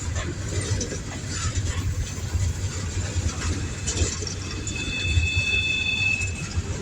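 Coal train's railcars rolling past with a steady low rumble and scattered knocks from the wheels and couplers. A thin, high squeal sounds for about a second and a half near the end, typical of a wheel flange rubbing on the rail.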